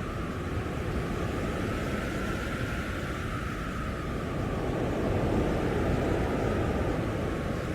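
Blizzard wind blowing in a steady, dense rush, with a faint howling whistle that slowly falls in pitch over the first few seconds.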